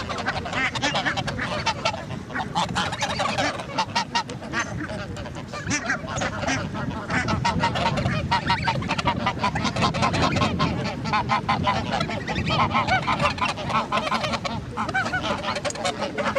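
A flock of geese and ducks calling and honking continuously, many birds at once with calls overlapping.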